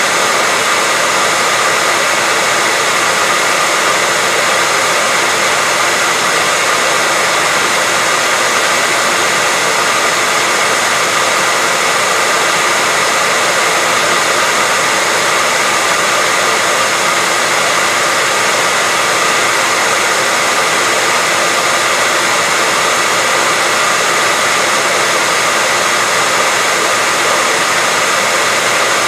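Hair dryer running steadily, a constant whooshing blow of air with a faint whine.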